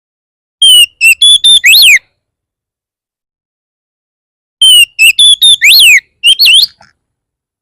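Oriental magpie-robin (kacer) singing two loud bursts of whistled notes, each about one and a half to two seconds long, with a few seconds' pause between; the second burst repeats the first, including a swooping note that dips and rises. This is a fired-up, aggressive song of the kind played to provoke other magpie-robins into answering.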